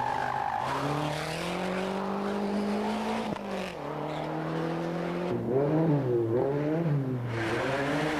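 Rally car engine under load, its pitch climbing through the revs with a sharp drop at a gear change about three seconds in. From about halfway it rises and falls quickly several times as the throttle is worked, then climbs again near the end.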